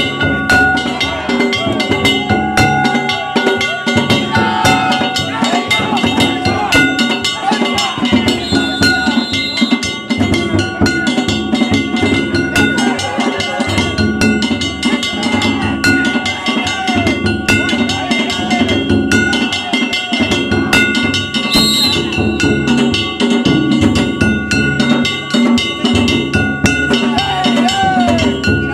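Danjiri float music: a taiko drum and small metal gongs (kane) beaten in a fast, steady rhythm, with voices calling over it.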